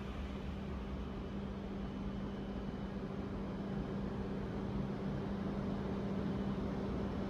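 Steady low hum over a faint, even background noise of the railway surroundings, with no train passing.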